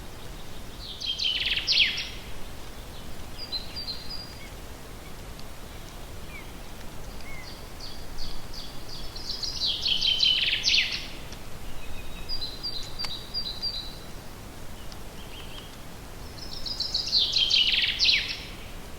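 A forest songbird singing a short, fast trilled phrase three times, each about two seconds long, with a few faint chirps between phrases over steady background noise.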